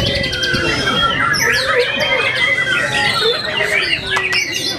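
White-rumped shamas singing over one another: many overlapping whistled phrases and quick trills, with a crowd talking underneath.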